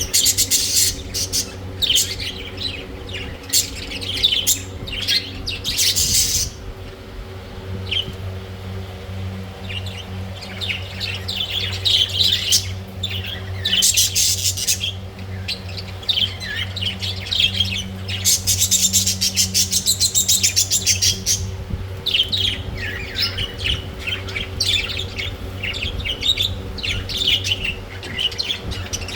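Budgerigars chirping and squawking in rapid, overlapping chatter, over a steady low hum.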